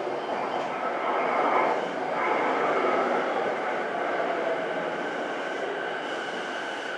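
Saikyo Line E233-series electric commuter train rolling into the platform and slowing. The running noise of motors and wheels on rail is loudest in the first few seconds and then eases off gradually.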